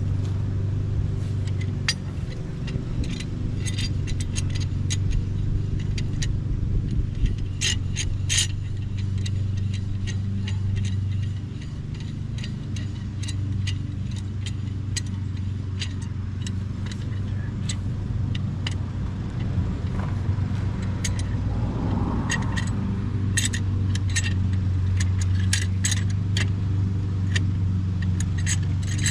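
Steady low hum under scattered metallic clicks and clinks of hand tools on metal, as a C-clamp is fitted and worked on a disc brake caliper to press the piston back.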